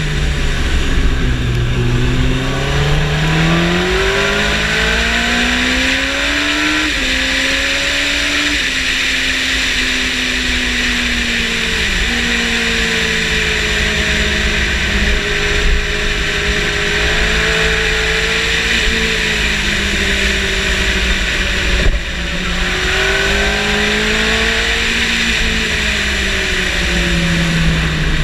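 Motorcycle engine being ridden hard on a track: its pitch climbs under acceleration and steps down sharply at each upshift, holds steady, then falls and climbs again, over a constant rush of wind noise.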